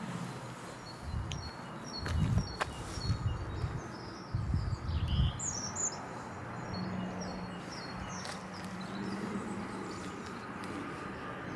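Small birds chirping and calling in the countryside. Several low bumps in the first half are the loudest sounds, and a faint steady low drone comes in about halfway through.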